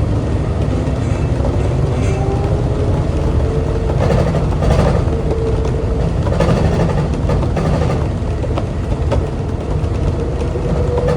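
Rubber-tyred automated LRT train running, a steady low rumble under an electric motor whine that rises slowly in pitch as it gathers speed.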